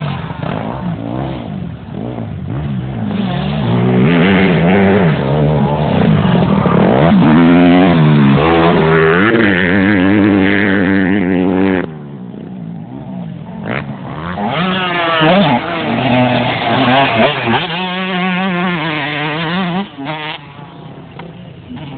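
Motocross bikes racing, their engines revving up and down in quick swings of pitch as the riders work the throttle. The sound drops sharply about twelve seconds in, then bikes rev hard again for several seconds before fading near the end.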